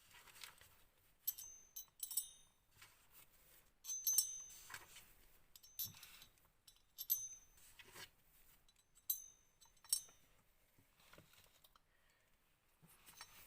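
Small metal parts of a model nitro engine, its cylinder head and head screws, clinking and tapping as they are handled. There are about eight sharp clinks, several with a short high metallic ring.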